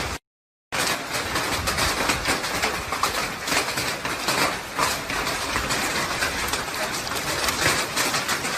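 Heavy rain falling, a dense steady hiss with fine crackling patter, after a brief dropout at the very start.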